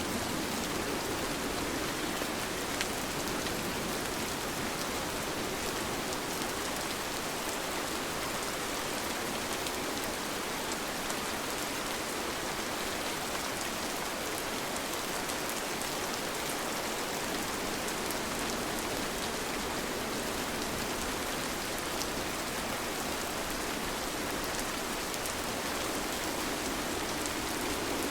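Steady rain falling: an even, dense hiss with a few sharper drop ticks.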